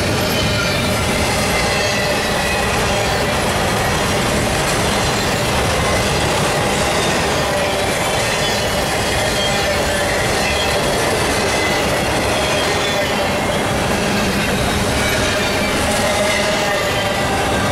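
Double-stack intermodal well cars rolling past on jointless track: a steady, loud rumble and rattle of steel wheels and car bodies, with a thin, high wheel squeal over it.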